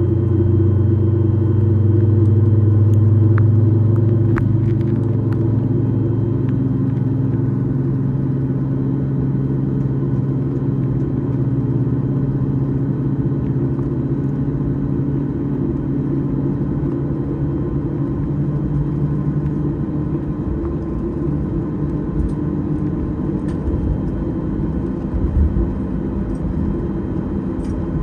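Boeing 737-8 MAX cabin noise: the jet engines run steadily under a low rumble, and a strong low hum weakens about two-thirds of the way through. A few small knocks come near the end.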